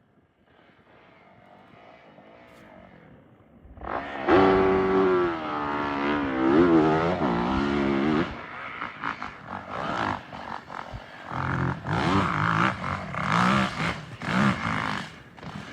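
Dirt bike engine revving hard on a hill climb: faint at first, then loud from about four seconds in, with the pitch swinging up and down as the throttle is worked, and after that in shorter on-off blips of throttle.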